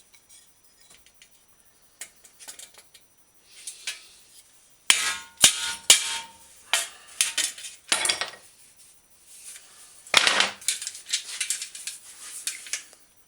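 A dented steel Schwinn bicycle fender being hammered out against wooden blocks with a mallet: a few light taps, then two runs of sharp, loud blows, about five seconds in and again near the end.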